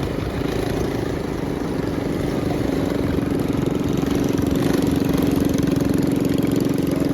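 Minibike's small single-cylinder engine idling steadily, its hum firming up and getting a little louder about halfway through.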